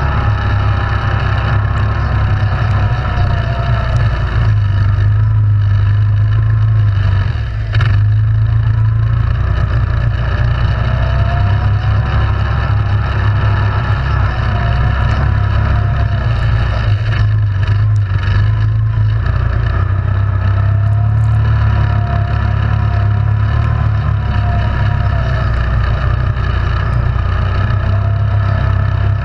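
Yamaha Grizzly 700 ATV's single-cylinder engine running while riding, a steady low drone under a whine that rises and falls with the throttle.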